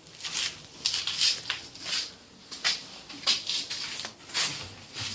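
Irregular metallic clinks and scrapes of hand tools working on a motorcycle engine being taken apart, about one or two a second.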